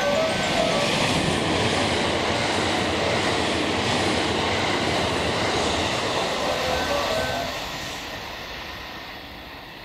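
A JR Hanwa Line train passing through the station platform at speed without stopping: a loud, steady rush of wheel and air noise that holds for about seven seconds, then fades as it goes away.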